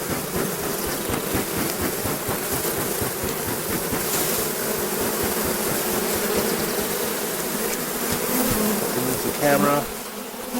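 Honeybees from a very strong, open hive buzzing in a steady, dense hum.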